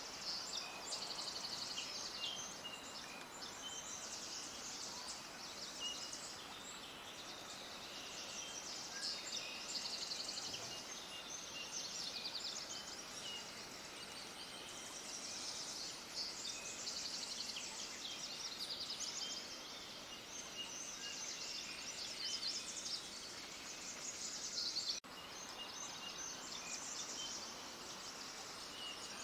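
Many small birds chirping and twittering in a continuous chorus of rapid high-pitched calls over a faint steady background hiss. The sound drops out for an instant about 25 seconds in.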